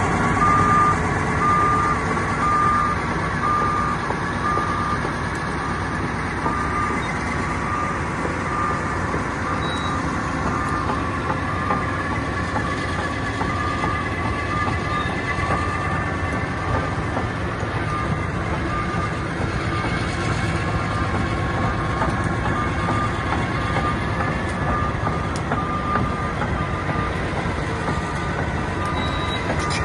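Caterpillar D10R bulldozer's diesel engine running steadily under its tracks' clatter, with the reverse back-up alarm beeping in a steady repeated rhythm: the machine is backing up.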